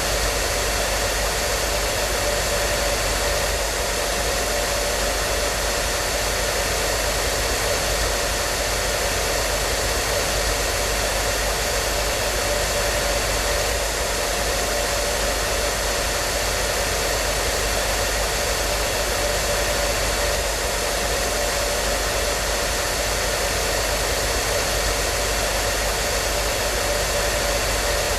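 Hair dryer running continuously at a steady speed: an even rushing of blown air with a faint steady motor hum.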